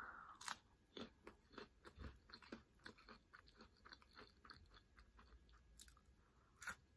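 Faint, close-up crunching and chewing of homemade tortilla-chip nachos: a crisp bite about half a second in, a run of small irregular crunches several times a second, and another bite near the end.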